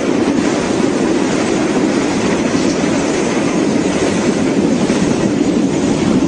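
A train passing on the track: a loud, steady rail noise that holds without a break.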